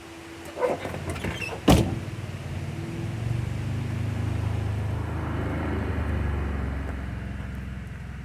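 A car door latch clicking open about two seconds in, then a car engine running with a steady low hum.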